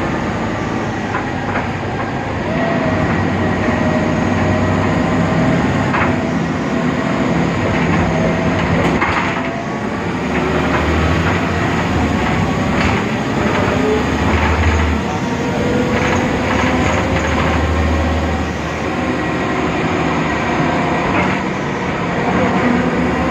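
Ride noise of a BredaMenariniBus Avancity Plus city bus on the move: its Deutz diesel engine and ZF 6HP Ecomat automatic gearbox running under way, with a low drone that swells several times, a faint whine rising slowly in pitch, and scattered knocks and rattles from the body.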